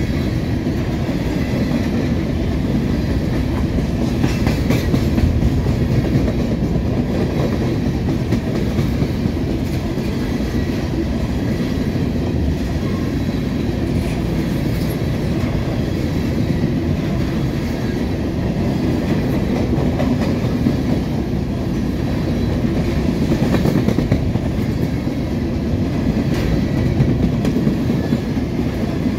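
Norfolk Southern covered hopper cars rolling past in a steady rumble, their wheels clacking over the rail joints.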